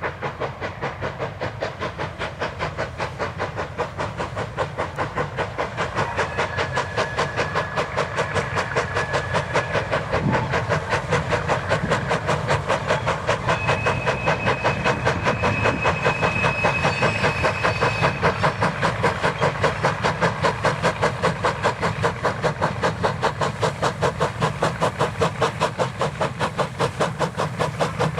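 Steam locomotive working hard, its chimney exhaust beating in a fast, steady rhythm, with two faint held high tones in the middle.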